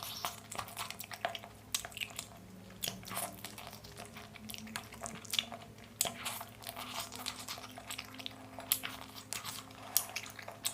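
Close-miked crunchy chewing and biting of food, many sharp, irregular crunches in quick succession.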